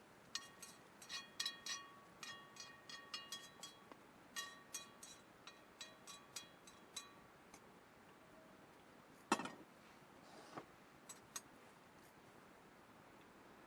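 Light clinking of a small metal or glass vessel, struck over and over with a short ringing note each time, rather like a utensil tapping inside a cup. A sharper knock comes about nine seconds in, followed by a few scattered clicks.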